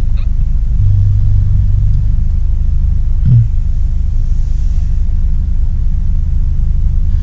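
Steady low rumble of a car with its engine running, with a hum that holds steady and a brief bump about three seconds in.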